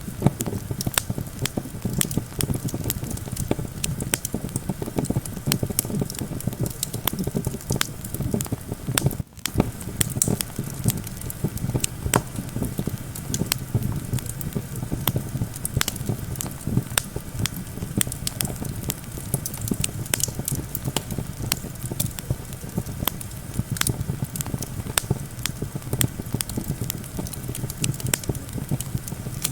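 Campfire crackling and popping constantly, over a steady low rumble of wind. The sound drops out for a split second about nine seconds in.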